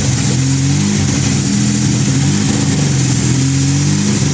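Mazda RX-7's rotary engine idling, its pitch slowly drifting up and down as the idle hunts. The owner suspects a vacuum leak that he cannot find.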